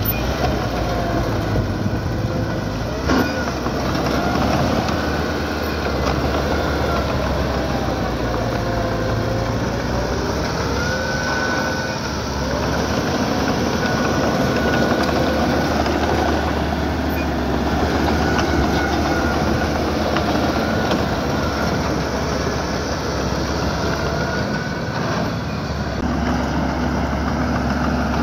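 Small crawler bulldozer at work: its diesel engine runs steadily while the steel tracks squeal in wavering, gliding tones and clank, with a sharp knock about three seconds in.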